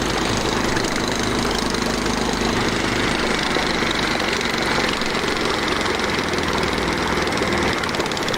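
Motorboat engine running steadily, a continuous even drone.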